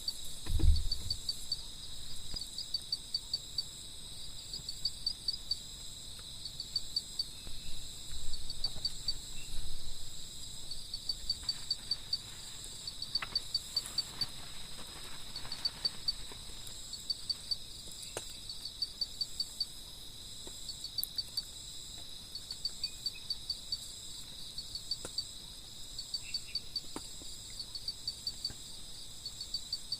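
Forest insects chirping: a steady high drone with rapid chirps repeating in short bursts, and a low thump about a second in.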